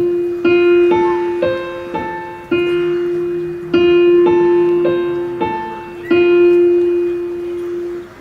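Keyboard playing a slow run of struck chords, each ringing on, over one repeated note, then cutting off abruptly near the end.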